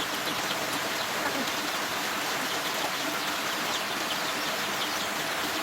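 Steady rushing-water noise, an even hiss with no break.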